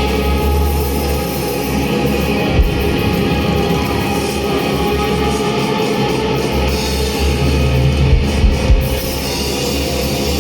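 Live rock band playing an instrumental passage loudly, with a heavy, droning bass line, guitar and drums, and a few hard drum hits about two and a half seconds in and again near the end.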